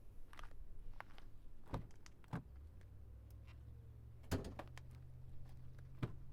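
Clunks and clicks from a Ford F-250 pickup as its door and hood release are worked, the loudest clunk a little past four seconds in. A low steady hum comes on about two and a half seconds in and rises slightly in pitch after that clunk.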